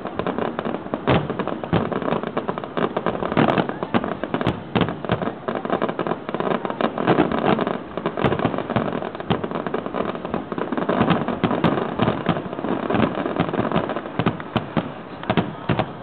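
Fireworks display: a dense, continuous barrage of bangs and crackling, several reports a second, with no let-up.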